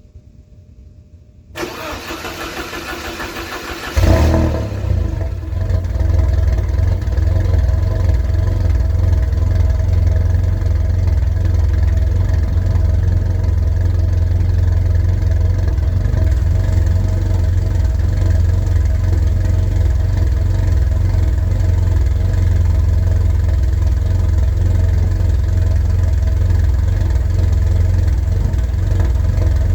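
1988 Porsche 944 Turbo's turbocharged four-cylinder on a cold start. The starter cranks for about two seconds, the engine catches with a loud burst, and it settles into a steady idle.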